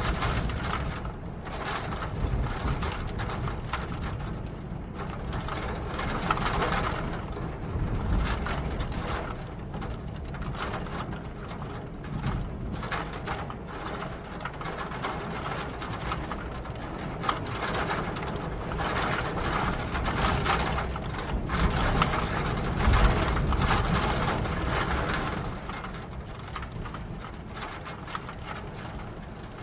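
Steady rain pattering as a dense stream of fast drips, with a low rumble underneath that swells and eases a little over time.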